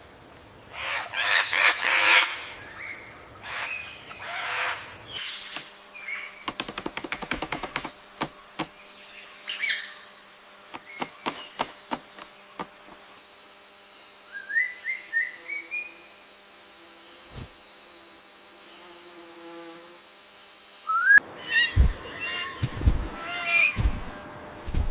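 Jungle ambience of bird calls and chirps. The sound changes abruptly several times: loud calls at first, then a run of rapid clicks and short calls, then a steady high buzz with a few quick rising chirps, and near the end loud calls again with low thumps.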